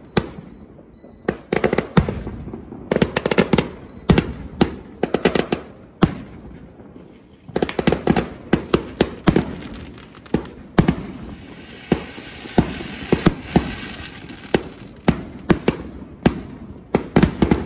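Aerial fireworks going off: a run of sharp bangs and clusters of rapid crackling pops. About two-thirds of the way through, a few seconds of steady hissing crackle sit under the bangs.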